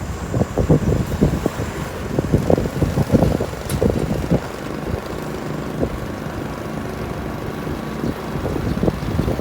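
Motorcycle riding along, its engine a low uneven rumble mixed with gusts of wind buffeting the microphone.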